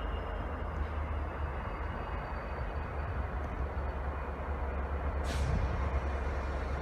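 Railway train running with a steady low rumble, and a short hiss of air from its brakes about five seconds in.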